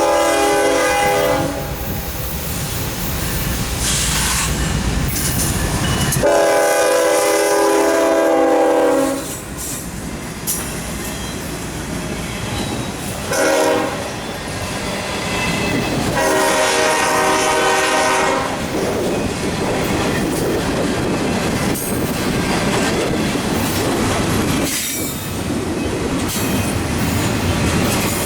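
Norfolk Southern diesel freight locomotive sounding its multi-note air horn in the long-long-short-long grade-crossing pattern: one blast ending about a second in, a long one around six seconds in, a short one near the middle and a final long one. Under the horn the engines rumble and the rail cars run with wheel squeal and clickety-clack.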